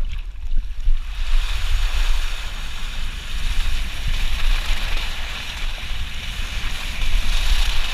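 Water rushing and hissing as a rider slides down a racing water slide on a foam mat, with wind buffeting the camera microphone. The rush of water comes up strongly about a second in and stays through the run.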